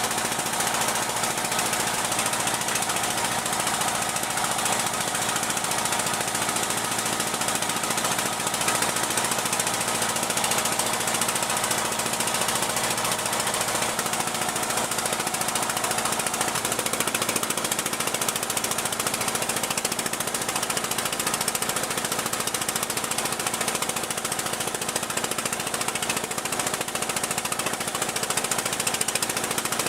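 Boat engine running steadily, a continuous even drone without pauses or changes.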